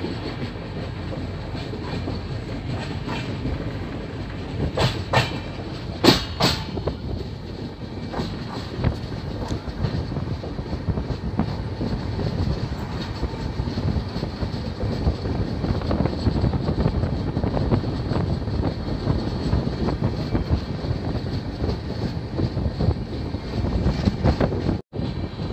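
Passenger train coach running along the track, heard from its open doorway: a steady rumble of wheels on rail, with a few sharp clacks about five to six and a half seconds in. The sound cuts out briefly near the end.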